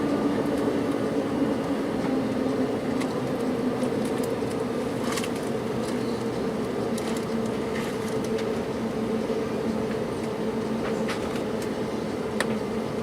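Cabin noise of an Embraer 195-E2 on the ground: the steady hum of its Pratt & Whitney geared turbofan engines, with two held tones over a hiss, and a few faint cabin clicks.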